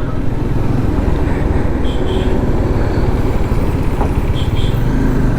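Steady wind rush and engine rumble of a Bajaj Dominar 400 motorcycle on the move, picked up by the rider's microphone. Two brief high double beeps sound about two seconds and four and a half seconds in.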